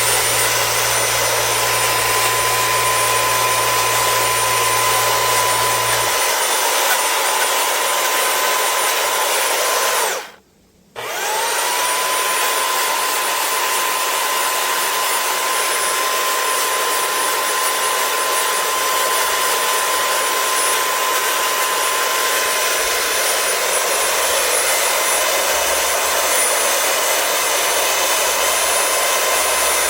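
Steady, loud machine noise of a running power tool, with a constant whine; it cuts out for about a second around ten seconds in and then resumes.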